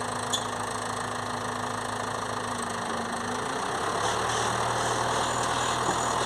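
Heavy diesel engine idling steadily, its note shifting slightly about three and a half seconds in.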